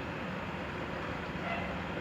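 Steady background rumble and hiss with a faint low hum, no distinct events.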